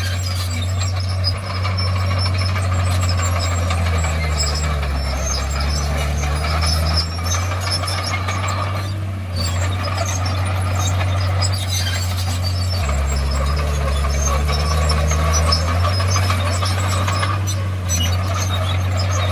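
Komatsu D51PX crawler bulldozer's diesel engine running under steady throttle, with high-pitched metallic squeaking and clanking from the tracks. The engine note drops twice, about four seconds in and again about thirteen seconds in.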